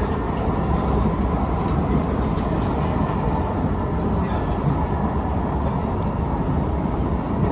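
Metro train running between stations, heard inside the cabin: a steady rumble of wheels and rails with a faint steady whine above it.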